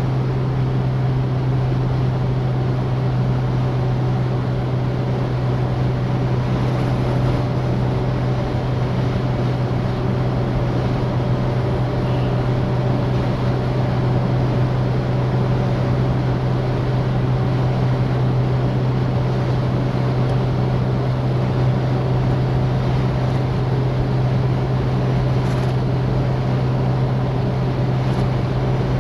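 Citroën DS driving at a steady speed: a constant low drone of engine and road noise that holds even throughout.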